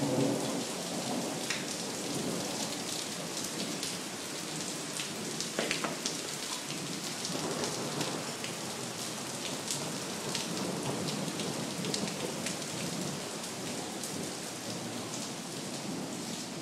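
Heavy thunderstorm rain falling steadily, with many individual drops ticking sharply on nearby surfaces. The low rumble of a thunderclap dies away in the first second.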